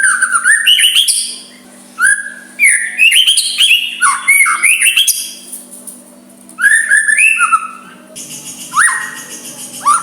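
White-rumped shama (murai batu) singing in four bursts of varied whistles and quick sweeping notes, with short pauses between them, over a faint steady low hum.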